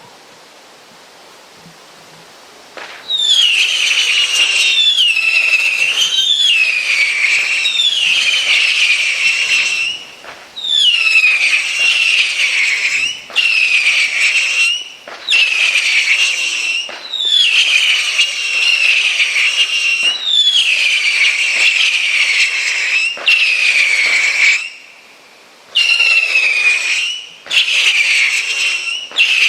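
Whistling Ghost firework firing a long string of whistling shots. They start about three seconds in and come roughly every second and a half. Each is a shrill whistle that slides down a little in pitch and then holds, with short pauses near the middle and near the end.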